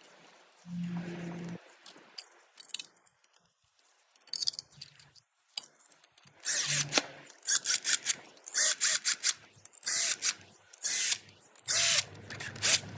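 Hand tool work on a water pump's fixing bolts: quiet handling noises, then from about six seconds in, repeated bursts of rapid metallic clicking as the bolts are run in.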